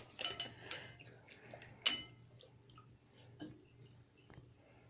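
Great Pyrenees puppy biting and mouthing its water bowl: scattered sharp clicks and knocks of teeth on the bowl, the loudest about two seconds in.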